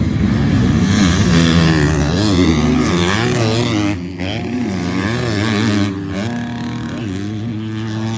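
250cc four-stroke motocross bikes revving on the track, the engine note rising and falling repeatedly with throttle and gear changes. About six seconds in the note drops and then holds steady.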